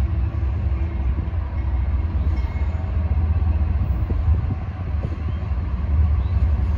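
Diesel freight locomotives approaching, a steady low rumble.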